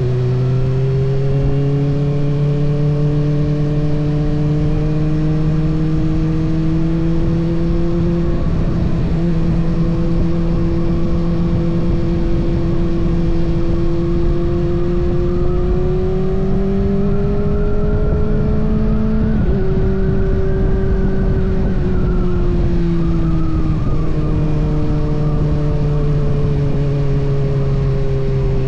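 Kawasaki ZX-6R's inline-four engine running under load on the road, its note climbing slowly with a few shifts in pitch about 8, 19 and 24 seconds in.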